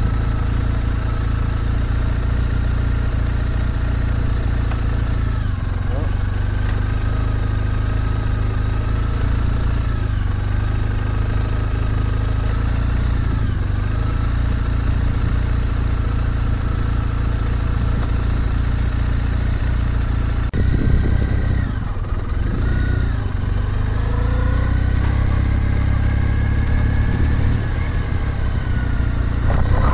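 Motorcycle engine running at low revs, its pitch rising and falling a little with the throttle, over a steady low rumble.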